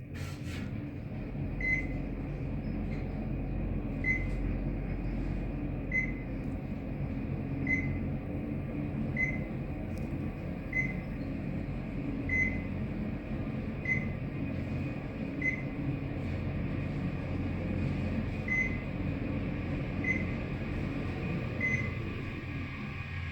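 Dover traction elevator car travelling, with a steady low hum and rumble and a short high beep about every second and a half, about a dozen times, as it passes each floor. The rumble drops away near the end as the car comes to a stop.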